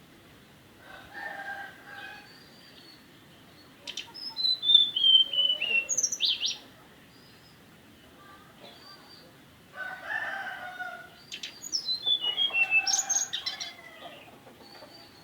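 Tledekan gunung, a small flycatcher, singing: a few short, softer calls, then two louder bursts of song, each with a quick run of high notes falling in pitch.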